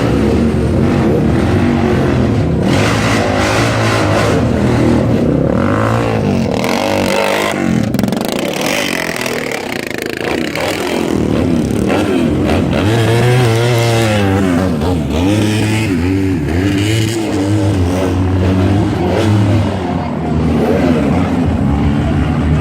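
Scramble sidecar outfits' motorcycle engines revving hard through a muddy section of track, several engines at once, their pitch rising and falling as they pass.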